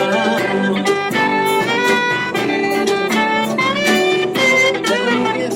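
Live band playing an instrumental passage of a pop song without vocals: a melodic lead line moving in steps over bass and chords, with regular drum hits.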